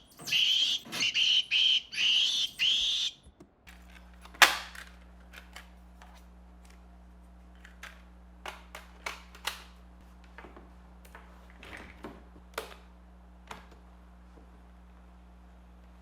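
Recorded monkey screams played through a portable tape player's built-in speaker, a run of shrill screeching bursts that stops about three seconds in. A steady low electrical hum then starts, with scattered sharp clicks and knocks, the loudest a little after four seconds in.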